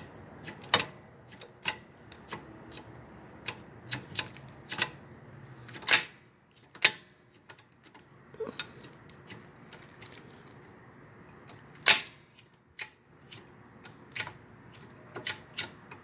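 Irregular sharp clicks and knocks of metal parts and tools being handled while working on a motorcycle, with a few louder knocks among them.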